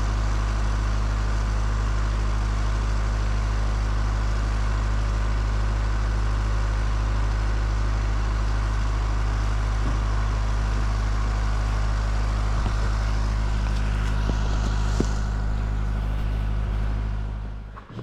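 Kubota B3030 compact tractor's three-cylinder diesel engine running steadily at idle, then shut off near the end, its sound dying away within about a second.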